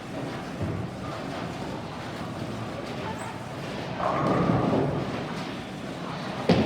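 Bowling alley din: a rolling rumble swells about four seconds in and fades, then one sharp knock near the end.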